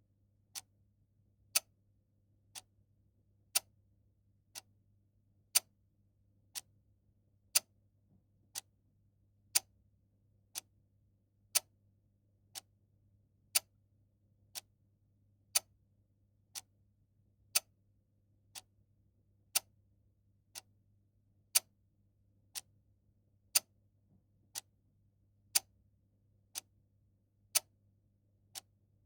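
Clock ticking about once a second, sharp ticks alternating louder and softer in a steady tick-tock, over a faint steady low hum.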